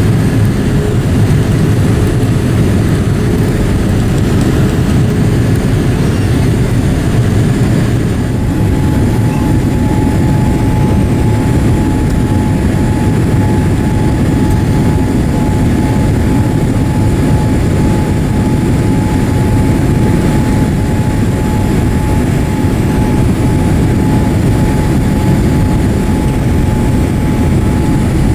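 Boeing 787-8 cabin noise on approach: a steady, loud low rumble of airflow and engines, with a thin steady whine coming in about eight seconds in.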